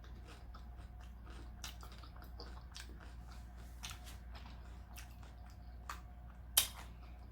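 Close-up chewing of a taco: wet mouth sounds and small crunches, with one sharper crunch near the end.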